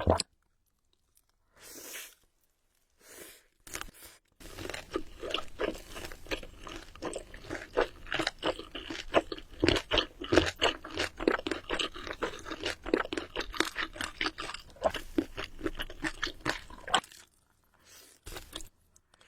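Close-miked chewing of crunchy food: a dense run of crisp crunches and mouth sounds that starts about four seconds in, after a near-silent start, and dies away shortly before the end.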